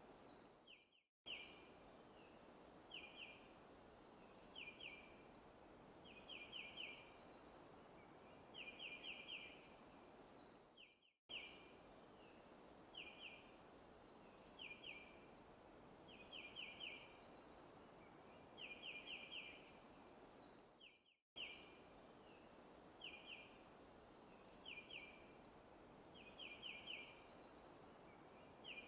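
Faint forest ambience: a bird chirping in short groups of two to four quick, high notes every second or two over a steady soft hiss. The track fades out and restarts about every ten seconds, a short recording looping.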